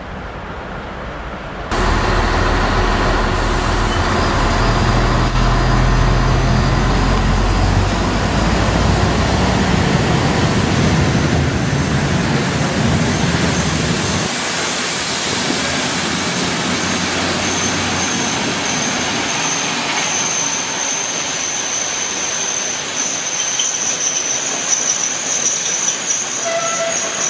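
Steam-hauled train of heritage coaches behind locomotive 03 2155 passing close by. The sound grows suddenly louder about two seconds in to a heavy rolling rumble, then the coaches roll by with a steady high squeal through the second half.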